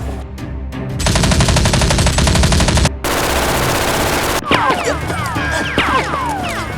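Rapid automatic-gunfire sound effect in long bursts, the first starting about a second in, followed by a string of short falling whistling sounds, over background music.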